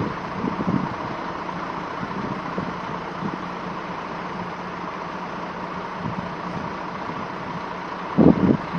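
Steady vehicle engine noise with a constant low hum, under a hiss of wind on the microphone; a brief louder burst of sound near the end.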